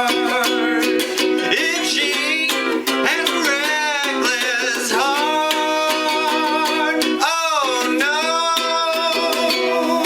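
Ukulele strummed in a steady rhythm, with a wordless sung vocal line sliding up and down in pitch over it.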